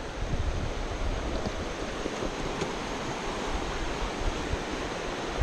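Steady rush of river water, with wind buffeting the microphone as a low rumble.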